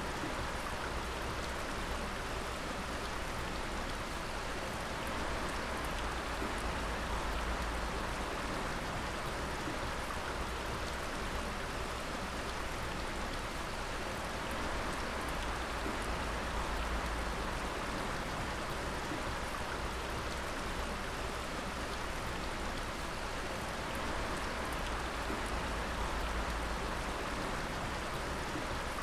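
Dripping water: a steady patter of many drops falling and splashing, with an even hiss underneath.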